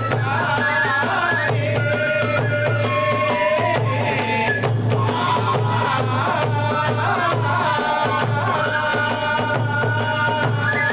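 Kagura hayashi ensemble playing: a bamboo transverse flute holds and steps through a melody over fast, dense drum beats and clashing hand cymbals.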